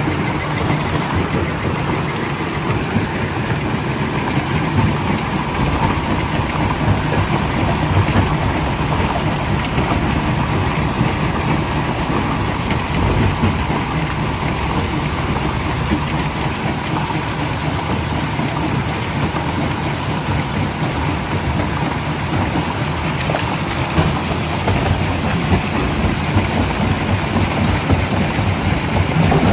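Primary jaw crusher running with rock going through it: a loud, steady mechanical rumble and din that does not let up.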